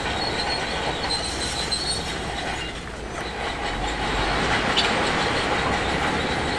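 Shantui DH17C2 crawler bulldozer working, its steel tracks squealing and clanking over the diesel engine's steady running. The sound dips briefly just before the halfway point, then carries on louder.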